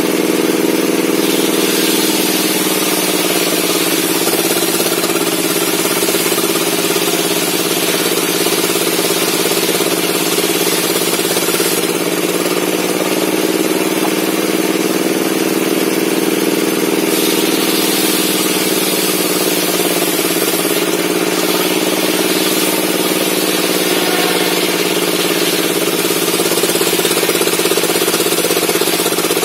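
Table-mounted circular saw running steadily, its drone sagging in pitch twice, a few seconds in and about two-thirds through, as the blade slows under load cutting through log wood, with a high hiss from the cut that rises and falls.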